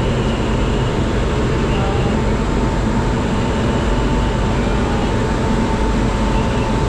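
Passenger train running, a steady loud rumble with a faint steady whine joining a few seconds in.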